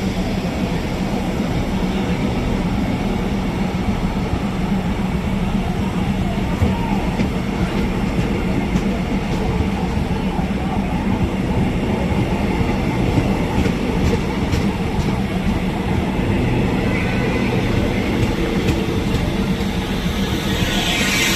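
Diesel railcar engine running steadily as the railcar shunts, with a few wheel clicks over rail joints. A high squeal of the wheels comes in near the end.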